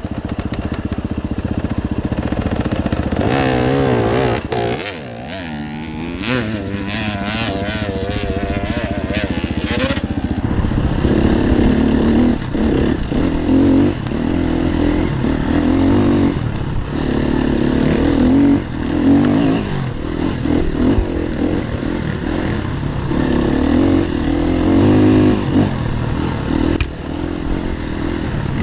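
Enduro dirt bike engine throttled on and off while riding. For the first ten seconds or so its pitch rises and falls rapidly. After that it holds a steadier note that keeps surging and dropping back.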